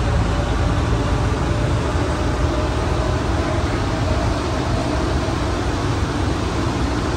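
Rubber-tyred automated people mover train running steadily through its tunnel, heard from inside the car as an even rumble and hiss.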